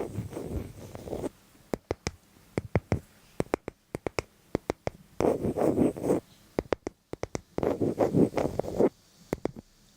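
Close-up scratching and clicking: many sharp clicks, with three scratchy rubbing bursts of about a second each, near the start, about five seconds in and about eight seconds in.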